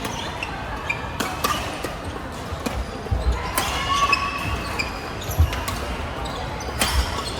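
Badminton doubles rally: several sharp racket strikes on the shuttlecock, with court shoes squeaking briefly on the hall floor in between.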